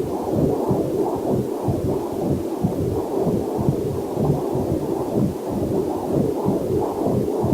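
Fast rhythmic whooshing pulses from a fetal Doppler heart monitor, about two to three beats a second, with a faint waterfall sound mixed underneath.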